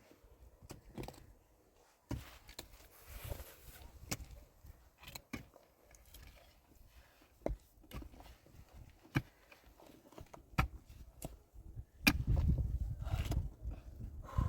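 Scattered light knocks and clicks, with a louder, noisier stretch of about a second and a half near the end.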